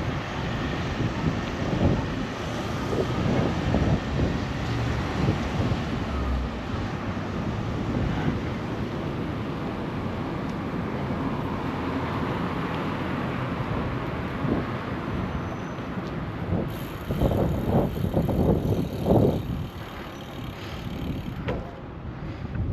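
Wind buffeting the GoPro's microphone while cycling, over a steady wash of city street traffic. Near the end come a few stronger gusts of low rumble.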